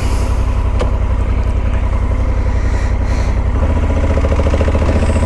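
Honda Africa Twin's parallel-twin engine running at a steady low note; its sound fills out a little about three and a half seconds in.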